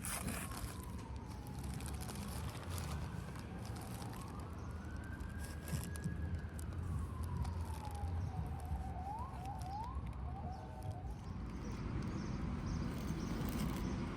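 An emergency-vehicle siren wailing, its pitch sliding slowly down, up and down again, with a few quick rising yelps about nine seconds in, over a steady low rumble.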